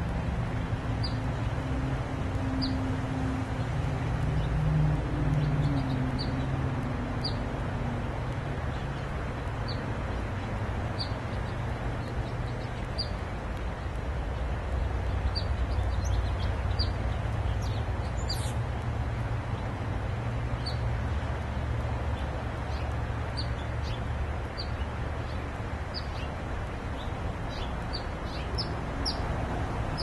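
A small bird giving short, high single chirps every second or two, over a steady low rumble.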